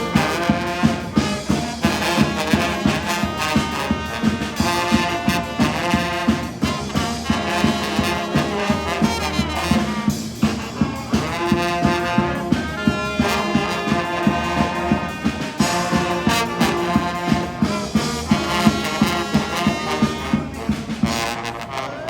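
A live street band playing an upbeat tune with a steady, even beat.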